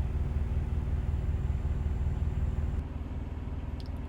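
A truck's diesel engine idling: a steady low hum. A little under three seconds in, the hum changes character and drops slightly in level.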